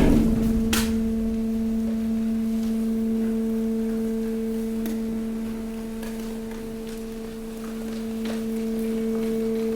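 The hydraulic pump of a waste compactor giving off a steady, even hum while it presses mixed waste, with a few faint clicks and cracks from the load.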